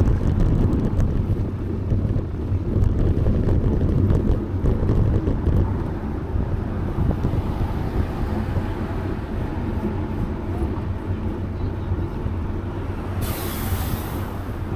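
Steady low rumble of wind on the microphone and passing road traffic during a bicycle ride, with a short hiss near the end.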